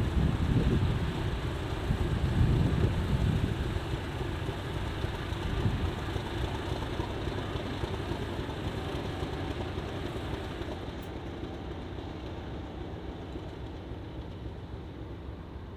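Class 50 diesel locomotive's English Electric sixteen-cylinder engine running with a low rumble, louder in the first few seconds and then gradually getting quieter.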